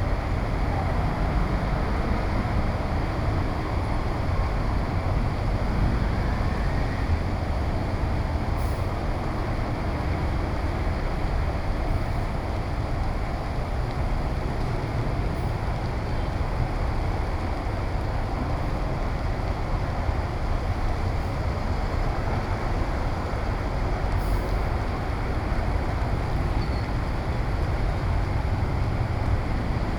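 Steady street noise in heavy rain: the rush of rain and passing traffic, with a low wind rumble on the microphone.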